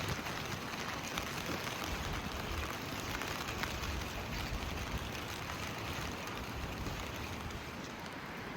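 Steady rain falling on pavement, with scattered drips and taps and a low rumble underneath.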